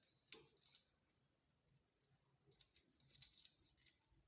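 Small clicks and scrapes of a carbon brush being pushed into its spring-loaded brush holder on an automatic washing machine motor: one sharp click about a third of a second in, then a cluster of faint clicks near the end.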